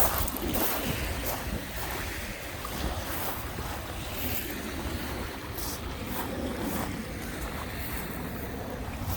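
Lake Michigan waves washing onto the shore, a steady surf, with wind buffeting the microphone.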